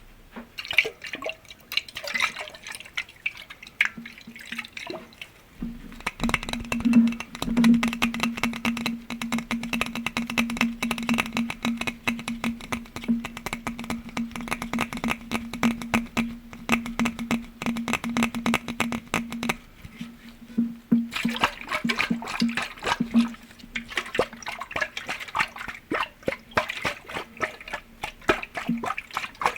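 Rapid tapping on glass objects, many quick light taps close together. Through the middle stretch a steady low ringing tone holds under the taps, then fades away.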